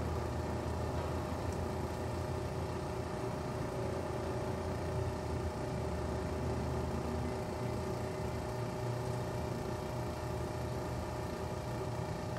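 A vehicle engine idling: a steady low hum with a few unchanging tones running through it.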